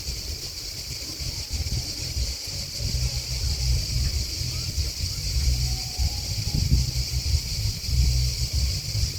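Grasshoppers and crickets chirping in a steady, dense, high-pitched chorus. Under it runs a loud low rumble that swells and fades unevenly, like wind buffeting the microphone.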